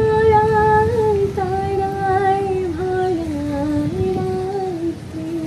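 A woman's voice singing a slow Bengali melody in long held notes with no words made out, stepping down in pitch and ending near the close. A low, steady rumble lies underneath.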